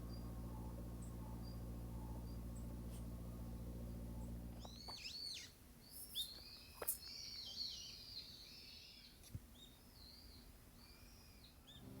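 Small birds chirping with short, repeated, arching calls. For the first five seconds there is also a steady low hum, which then cuts off.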